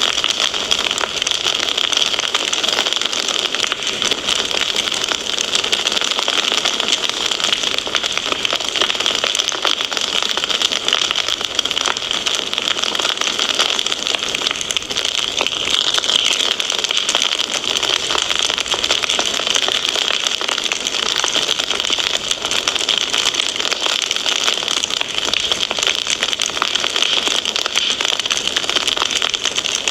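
Fireplace wood fire crackling: a steady, dense hiss packed with small pops and snaps.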